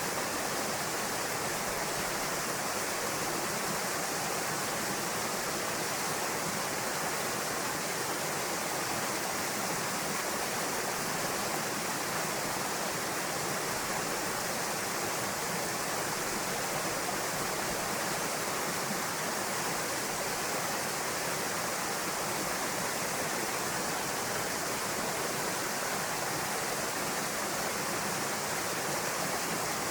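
Small waterfall pouring into a rocky pool: a steady, even rush of falling water.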